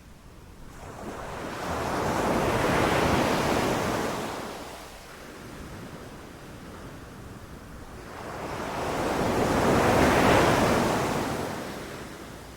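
Ocean waves breaking on a beach: two waves swell up and wash away, the first peaking about three seconds in and the second, slightly louder, about ten seconds in, over a steady low wash of surf.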